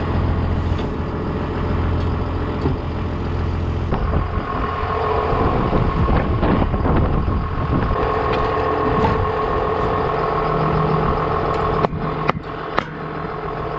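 A 7130 tractor's diesel engine running steadily, with a few sharp knocks near the end.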